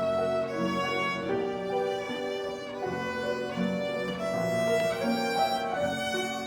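A child's violin playing a melody of held, bowed notes that change every half second to a second.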